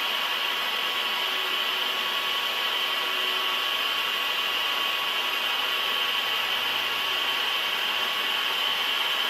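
Steady machine noise, a constant hiss with faint high whining tones and no change or impacts.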